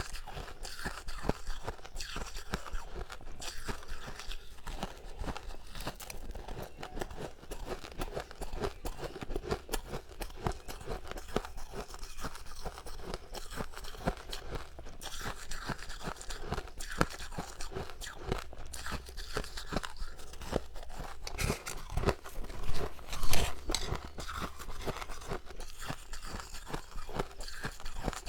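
Close-miked crunching and chewing of soft, snow-like frost ice from a fridge freezer, a steady run of crackly bites with a louder burst of crunches about 22 seconds in.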